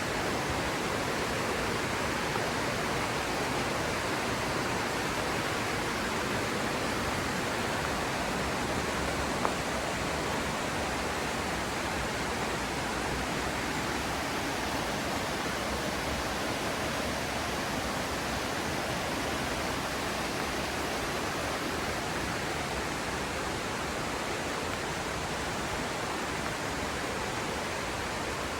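Mountain river rushing over rocks: steady, even water noise with no change in level. One brief click about nine and a half seconds in.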